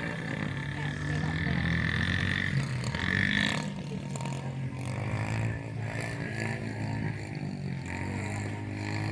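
Dirt bike engine running steadily, its pitch drifting slightly up and down.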